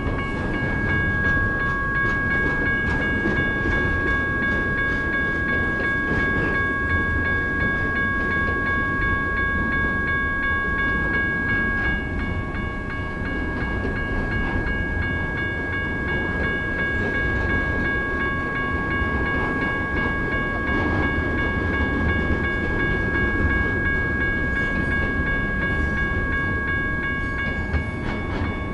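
Freight train cars rolling past a grade crossing, a steady rumble of wheels on rail. Over it, the crossing's General Signals type 1 electronic bells ring as steady high tones, and one tone drops away about halfway through.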